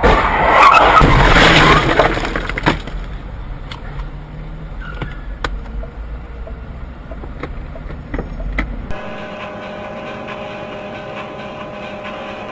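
Car on the road heard from inside the cabin: a loud rushing noise for the first two seconds, then steady road rumble with a few sharp clicks. About nine seconds in it switches abruptly to a steadier engine hum.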